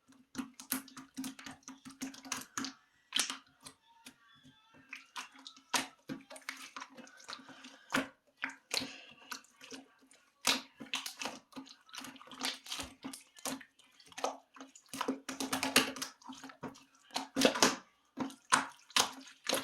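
Homemade slime being squished and poked by hand: a rapid, irregular run of wet clicks and pops over a steady low hum.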